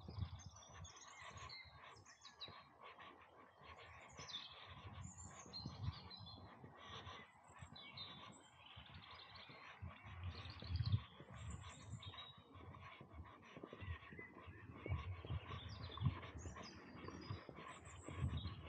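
Wild birds singing: a steady stream of short chirps and warbles from several birds, with scattered low thumps underneath.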